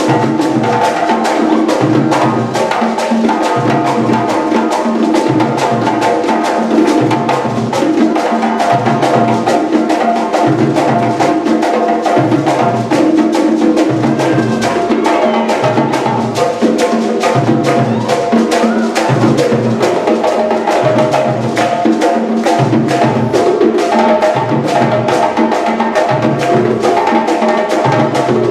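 African drum ensemble playing live, a dense run of fast hand-drum strikes over a steady deep drum beat a little over once a second.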